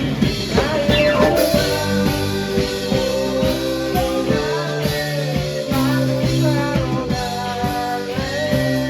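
Rock band playing, with a drum kit and held guitar notes under a singing voice.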